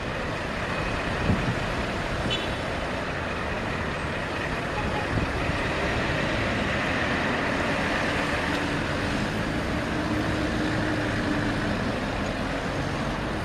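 Ford truck running, with steady engine and road noise and a brief thump about a second in.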